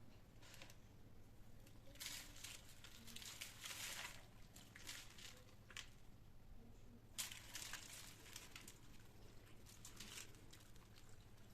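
Faint crinkling and rustling of something being handled, in two spells: about two seconds in and again about seven seconds in, with a few soft clicks between.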